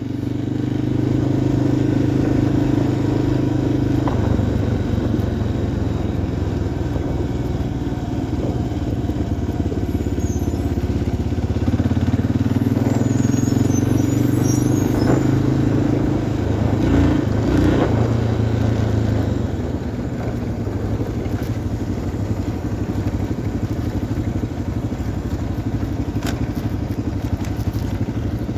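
Single-cylinder four-stroke engine of a 1990 Yamaha XT350 dual-sport motorcycle running while riding, its pitch shifting a few times as the engine speed changes, and a little quieter over the last third.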